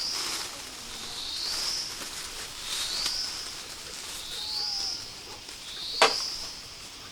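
A bird calls a high, rising whistled note over and over, about five times, roughly every second and a half. A sharp snap or knock about six seconds in is the loudest sound.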